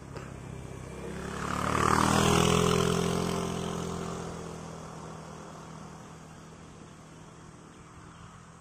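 A motor vehicle passing close by: its engine grows louder to a peak about two seconds in, drops in pitch as it goes past, then fades away.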